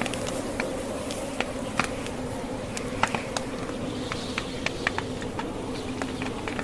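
Wood fire crackling in a fireplace: irregular sharp pops and snaps, a few of them louder, over a steady low hum.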